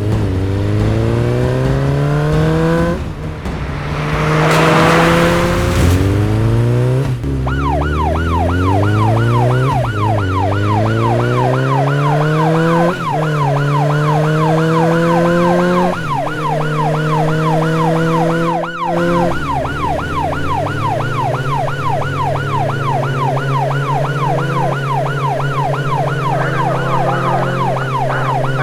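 Vehicle engine sound effect revving up in repeated rising steps as if shifting gears, with a burst of hiss about four seconds in. From about seven seconds a fast police yelp siren wails up and down about twice a second over a steady engine hum.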